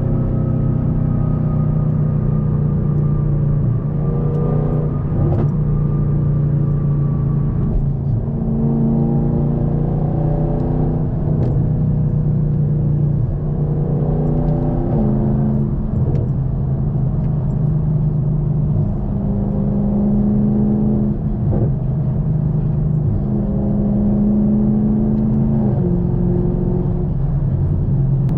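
2023 Camaro SS's 6.2-litre V8 running through a muffler-and-secondary-cat-delete exhaust, driving under steady throttle. The engine note shifts pitch in steps every few seconds as the automatic transmission changes gear.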